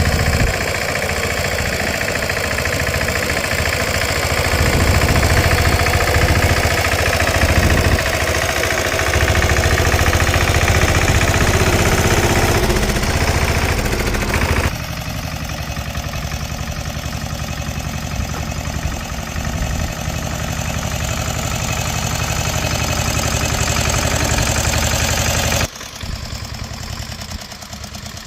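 Small garden tractor's engine running steadily with a fast, knocking beat while hauling a load of manure. The sound steps down in level about halfway through and again near the end.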